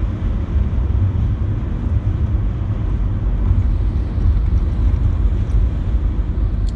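Car driving on a wet road, heard from inside the cabin: a steady low rumble with an even hiss of tyres and rain.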